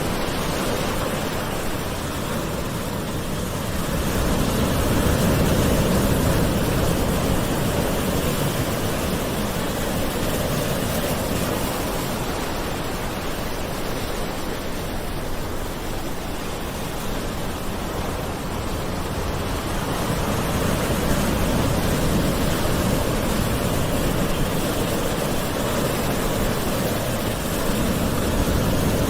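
Calm ocean waves washing onto the shore in a continuous wash of surf, swelling gently louder a few times as waves come in.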